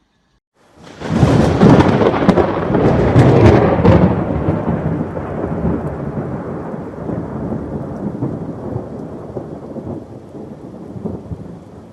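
Thunder: a sudden crack about a second in that rolls on and slowly fades, with rain falling.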